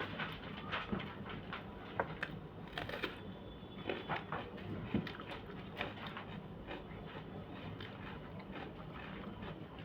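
A person eating: chewing with scattered small clicks and taps, irregular and a few per second at most, over a low steady hum.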